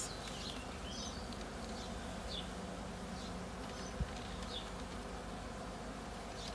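Honey bees buzzing in a steady hum around an open hive. A single short click about four seconds in.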